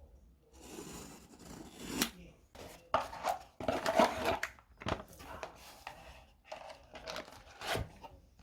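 Close-up handling noise: irregular rustling and scraping with sharp clicks and taps, as things are handled right next to the microphone.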